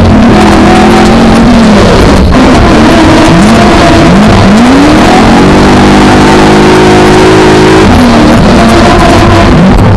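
V8 engine of a BMW E30 drift car, recorded from inside the car, running very loud under hard throttle. The revs drop and sweep back up several times in quick succession, then are held high and steady for a couple of seconds before falling away near the end.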